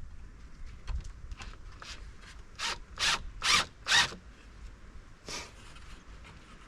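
A run of short scraping strokes, about two a second, loudest around the middle, with one last stroke a little later.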